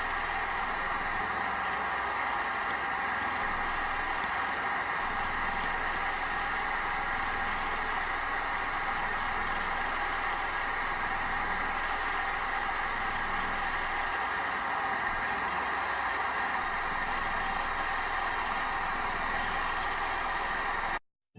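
Experimental 14cc water-cooled, pressurised twin-cylinder gamma Stirling engine running steadily, over the steady rushing of its gas burner. The sound cuts off abruptly just before the end.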